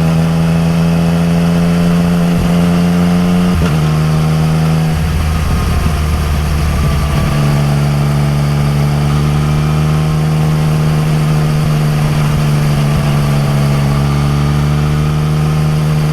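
Yamaha MT-09 Tracer's inline three-cylinder engine through an Akrapovič exhaust, under way at road speed. The engine note shifts a few times in the first seven seconds, then holds steady.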